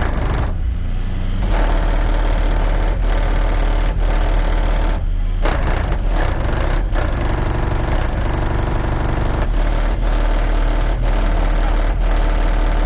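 Car engine running loudly with a deep rumble; the higher part of the sound drops away briefly about a second in and again about five seconds in.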